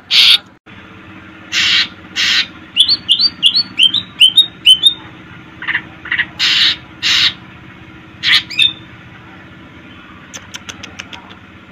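Cucak ijo (leafbird) singing: harsh rasping calls broken by a quick run of about eight short rising whistled notes, then a rapid cluster of short ticking notes near the end. A faint steady low hum runs underneath.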